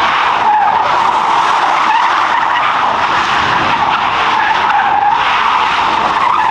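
Car tyres screeching continuously as a car slides with its wheels spinning, the squeal wavering slightly in pitch.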